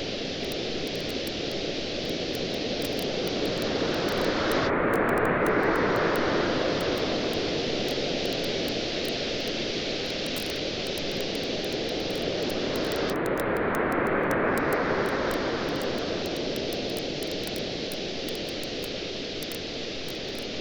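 Campfire crackling with frequent small pops over a steady wash of surf; a wave swells in about five seconds in and another around fourteen seconds.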